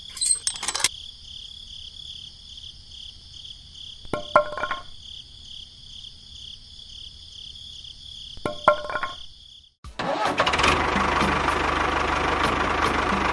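A small engine is tried three times in short bursts a few seconds apart, then starts and runs steadily from near the end.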